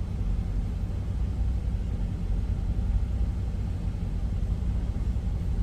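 Semi truck's diesel engine idling: a steady low rumble with an even hum.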